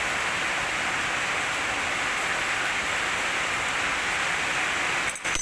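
Steady rushing hiss of running water, broken off briefly about five seconds in.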